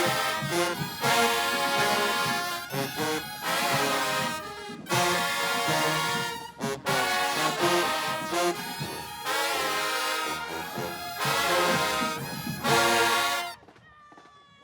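Marching band brass playing a tune in loud phrases with short breaks. The band cuts off near the end.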